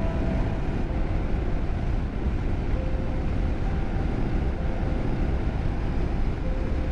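Motorcycle running at steady road speed, its engine mixed with a steady rush of wind and road noise.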